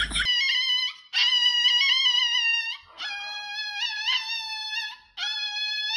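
Small toy poodle crying in long, high-pitched, wavering howls while its claws are being clipped: four drawn-out cries with short breaks between them.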